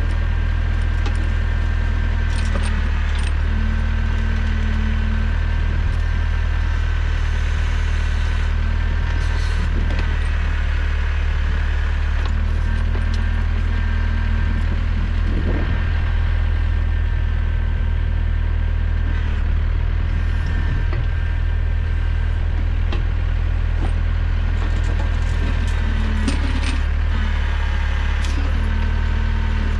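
Small tractor engine running steadily while driving the backhoe's hydraulic pump, with a pump whine that rises and falls and a second tone that comes and goes as the controls are worked. Scattered metallic clicks and clanks from the backhoe.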